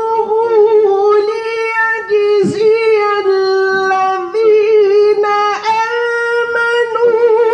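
Quran recitation in melodic tajwid style: a man's voice chanting a long, ornamented held line, sustaining high notes with small pitch turns and a brief break for breath about four seconds in.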